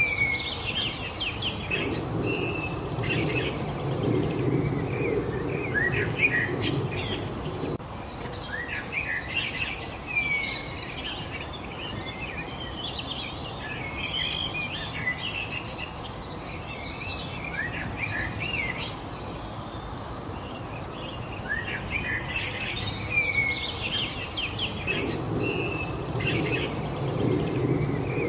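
Several birds chirping and singing at once, with short overlapping calls and trills, busiest around the middle. A low rumble runs under them for several seconds near the start and again near the end.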